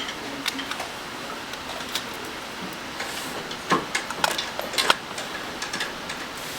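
Scattered light clicks and taps of small hand tools over a steady hiss, with a quick run of them about four seconds in.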